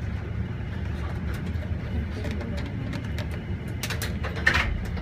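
Eiffel Tower elevator car running on its descent: a steady low rumble with scattered light clicks, and a brief louder rustle about four seconds in.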